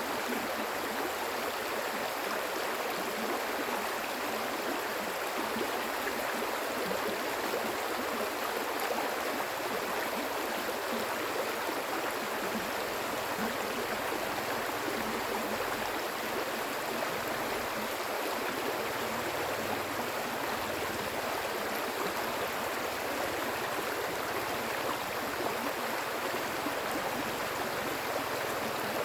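Stream water flowing steadily over its bed.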